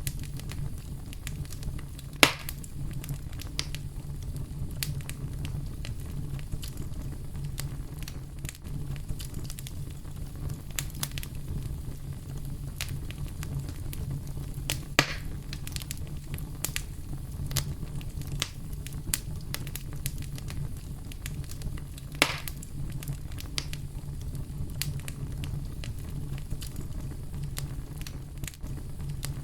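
Steady deep brown-noise rumble with a campfire crackling over it. Scattered small ticks are joined by three louder pops: one about two seconds in, one near the middle and one about two-thirds of the way through.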